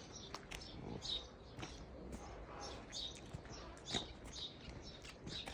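Small birds chirping over and over, short high chirps about twice a second, with scattered crunchy footsteps on a stony path.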